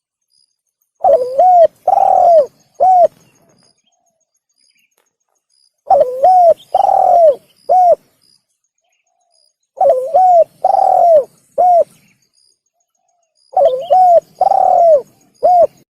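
Spotted dove (tekukur) cooing, a lure call for the species. Four phrases come about four seconds apart. Each is a quick double coo, then a longer coo falling at its end, then a short final coo.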